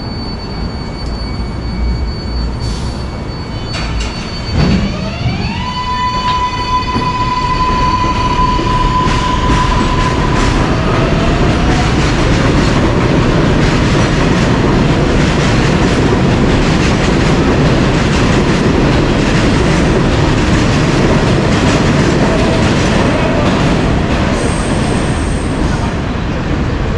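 A train running past close by on the track. About four and a half seconds in, a high whine rises and holds for several seconds, then gives way to a loud, steady rumble of wheels on the rails.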